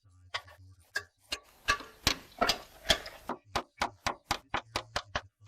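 Slater's hammer knocking on slate: sharp strikes, a dense flurry of them about a second in, then a quick, even run of about five blows a second near the end.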